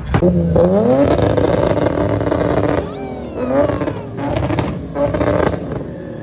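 Car engine revved hard: its pitch climbs over the first second and holds at high revs for about two seconds with a rushing noise over it, then falls away and surges again briefly a couple more times.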